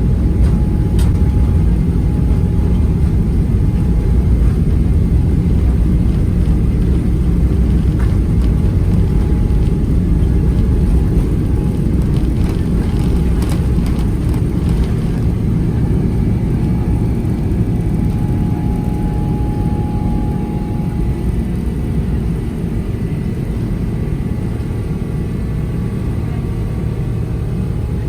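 Boeing 777-300ER engine and airflow noise heard inside the cabin: a loud, steady low rumble that eases a little in the second half, with a few faint clicks partway through.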